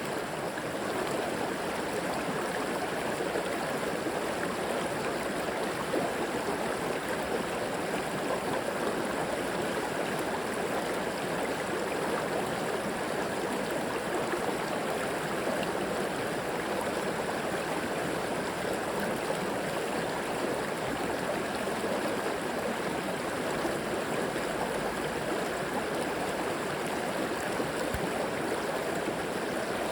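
A river flowing steadily, its water rushing and gurgling in an even, unbroken stream.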